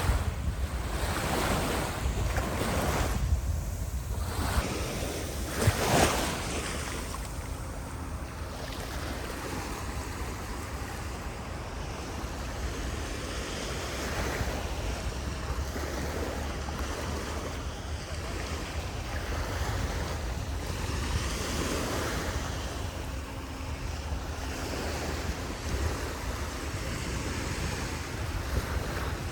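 Sea surf washing onto a beach, swelling and easing in waves, with wind buffeting the microphone as a low rumble. A brief sharp thump stands out about six seconds in.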